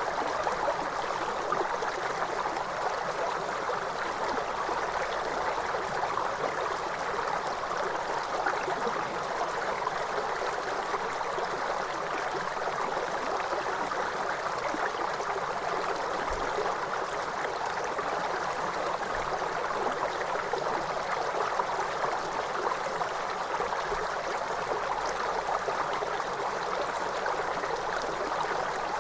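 Waterfall: a steady, even rush of falling water, mostly in the middle range with little deep rumble.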